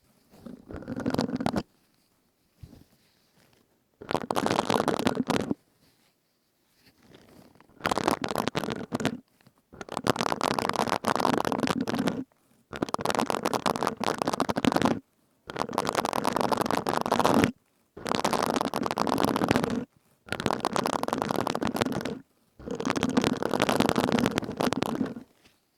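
Silicone scrubbing sponge rubbed and squeezed close to the microphone, in about nine strokes of a second or two each with short pauses between them.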